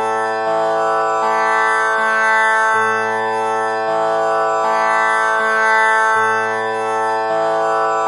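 Tanpura drone tuned to A (6 kattai), its strings plucked one after another about once a second, each note ringing on with a buzzing shimmer of overtones so the drone never breaks.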